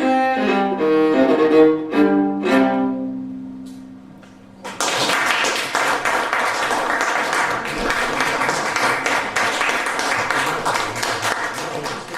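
The closing bars of a waltz played on a solo instrument, ending on a held chord that fades away. About five seconds in, an audience breaks into steady applause that lasts to the end.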